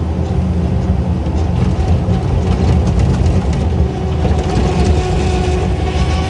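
Engine of working machinery running steadily under load, a loud, continuous low rumble.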